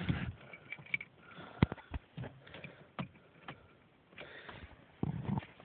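Car key and keyring clicking and rattling as the key is put into the ignition, a run of sharp clicks with a few duller knocks, the sharpest about a second and a half in; the engine is not running.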